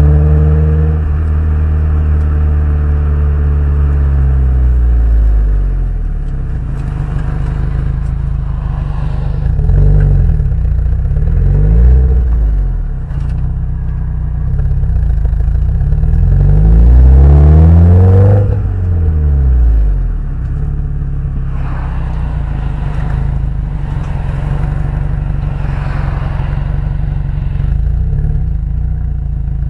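Subaru Impreza WRX STI's turbocharged flat-four engine heard through an STI Genome rear muffler. The revs fall away at the start, rise and fall briefly a couple of times, climb in one bigger rev that drops off sharply about eighteen seconds in, then settle to a steady idle.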